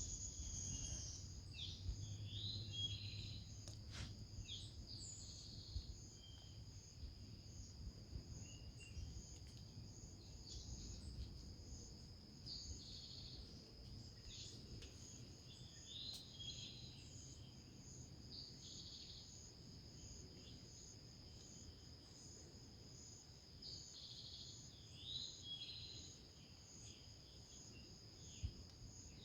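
Insects trilling steadily in a high continuous drone, with short bird chirps now and then over a faint low background rumble.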